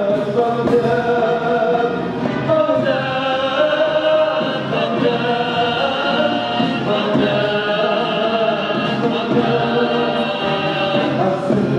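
Symphony orchestra with a choir singing long held notes.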